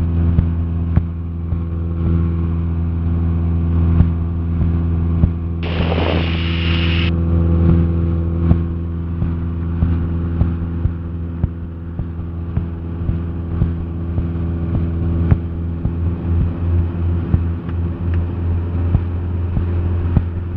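Cessna 172SP's four-cylinder Lycoming engine and propeller droning steadily in cruise, heard inside the cabin. A short burst of hiss breaks in about six seconds in and lasts just over a second.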